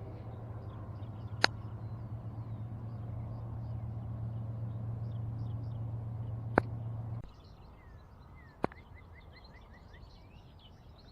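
Low, steady rumble of a distant train with birds chirping over it; the rumble cuts off abruptly about seven seconds in, leaving the birdsong. Three sharp clicks stand out, the loudest events.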